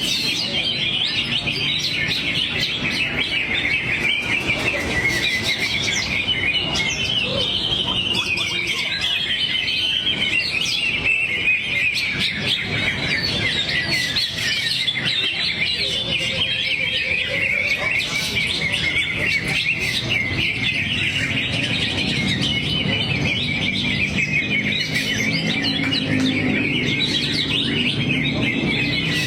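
Green leafbird (cucak hijau) singing a continuous, fast run of varied high chirps and trills: its repertoire of mimicked song.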